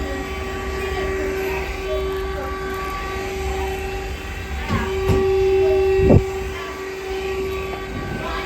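Cordless stick vacuum running with a steady motor whine and rumble. A few knocks about five to six seconds in, the last the loudest, likely the vacuum head bumping against floor or furniture.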